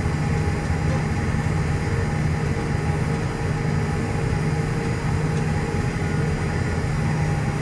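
Vehicle engine running steadily with a low, even drone while driving.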